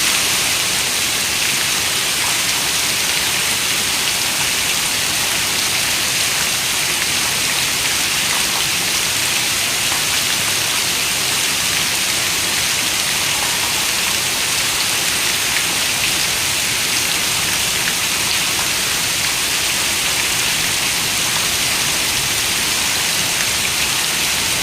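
Heavy rain falling steadily, a constant dense hiss of drops on a window pane with faint scattered ticks of individual drops.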